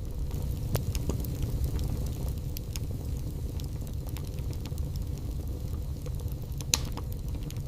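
Wood fire burning in a fireplace: a steady low rumble of flames with scattered sharp crackles and pops, the loudest one near the end.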